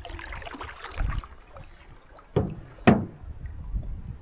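Canoe paddling: two sharp knocks of a paddle against the canoe's hull about half a second apart, with softer scattered knocks and splashes around them.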